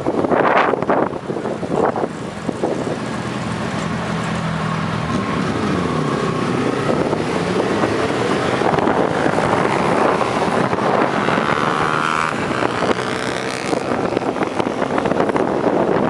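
Motorcycle engines running, with one revving so that its pitch rises and falls a few seconds in.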